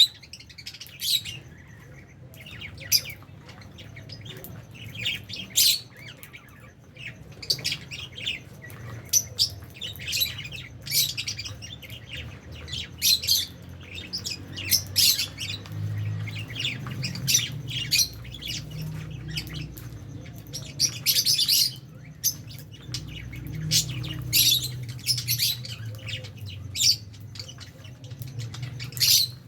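A flock of lovebirds in an aviary chirping and squawking, many short, sharp, high-pitched calls overlapping in irregular bursts, over a faint low hum.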